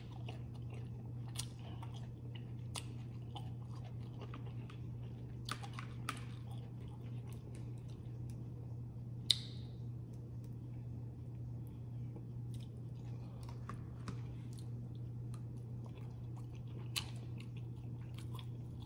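Close-miked chewing and biting of food, with scattered short wet smacks and clicks and one sharper, louder click about nine seconds in, over a steady low hum.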